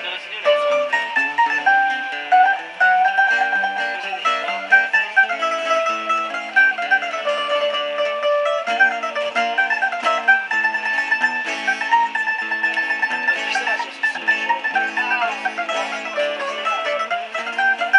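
Two musicians playing plucked string instruments, a melody line over a steady chord accompaniment.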